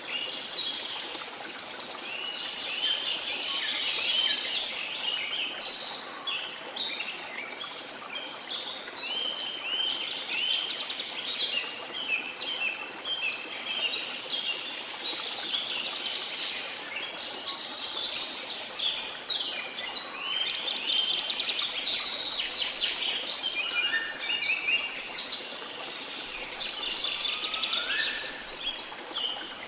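A dense chorus of many birds singing at once, overlapping chirps and short whistles without pause, with a few rising whistles near the end, over a steady background hiss.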